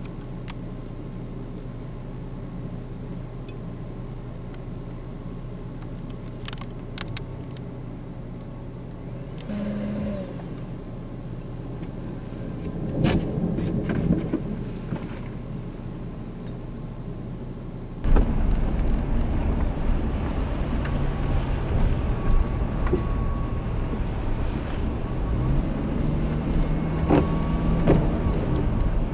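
Steady low hum of an idling vehicle engine, with one brief sharp crack partway through. Then the sound jumps abruptly to louder rain and wind noise, and a car engine rises in pitch near the end.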